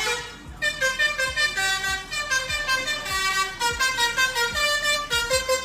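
A truck's musical horn playing a tune, sounding a quick run of held notes that step up and down in pitch after a short pause at the start, with low thumps underneath.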